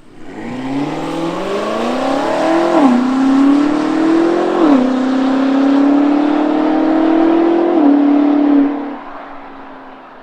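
BMW X5 M Competition (F95) twin-turbo 4.4-litre V8 through a valved cat-back exhaust with the particulate filters deleted, accelerating hard: the engine note climbs, drops three times at upshifts, then falls away as the throttle is lifted and the sound fades.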